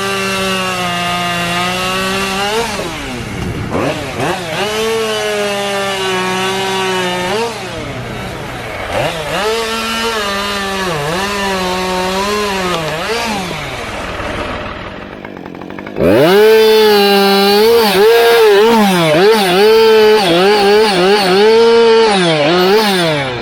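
Two-stroke chainsaw cutting wood, its engine pitch dipping and recovering again and again as the chain bogs under load in the cut. It is briefly lower around a few seconds in and quieter just past the middle, then jumps much louder about two-thirds of the way through.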